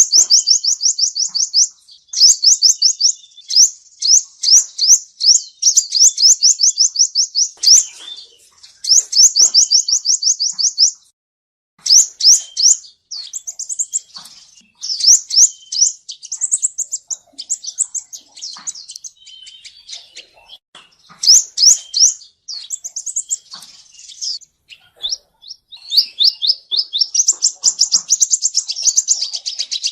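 Male sunbird (the Vietnamese 'seven-colour' sunbird) singing: fast, high trills of rapidly repeated notes in bursts of a second or two, with brief pauses between them, used as a lure call for trapping.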